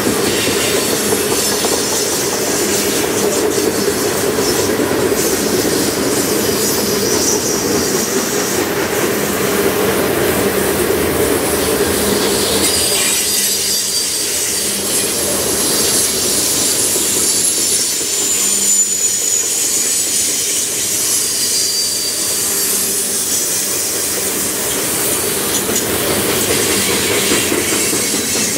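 Covered grain hopper cars of a freight train rolling past, a steady rumble of steel wheels on rail. Faint high-pitched wheel squeals come and go in the middle stretch.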